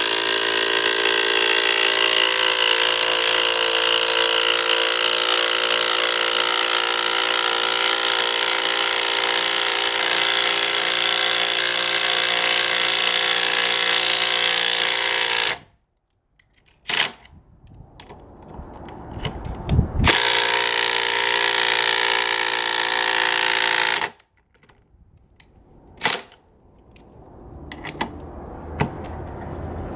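Cordless impact driver hammering steadily under load as it drives a 3/8-inch by 5-inch lag screw into wood. It runs for about fifteen seconds and stops suddenly, then a few short bursts lead into another steady run of about four seconds, followed by brief blips.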